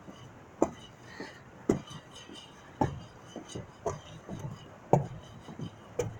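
Footsteps at a steady walking pace: a sharp step about once a second, with softer scuffs between.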